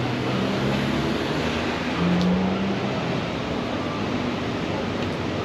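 Road traffic: car engines running steadily, one a little louder about two seconds in.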